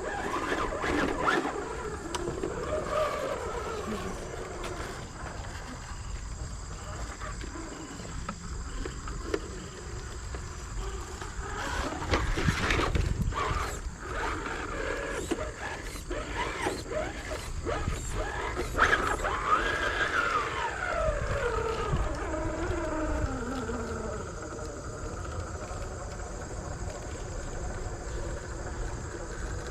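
Electric motor of a radio-controlled crawler truck whining, its pitch rising and falling as the throttle changes. There is a cluster of clicks and knocks near the middle, and a long downward glide in pitch a little later.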